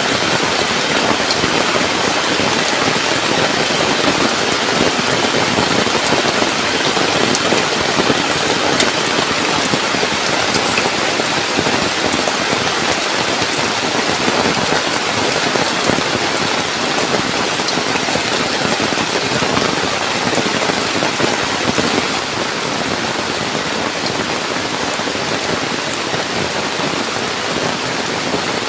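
Heavy tropical rain falling steadily on the forest and its surfaces, a dense, even hiss and patter.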